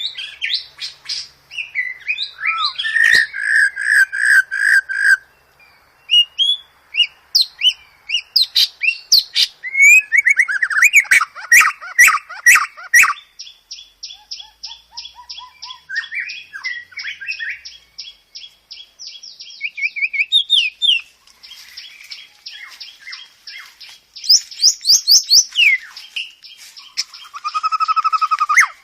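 White-rumped shama song: a fast, varied run of clear whistles, sliding notes and chattering phrases. A long, fast, even trill runs through the middle.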